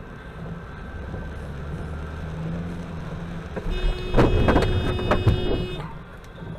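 Car driving with steady engine and road noise, then about four seconds in a burst of loud knocks and bangs lasting about two seconds, with a steady tone sounding over them.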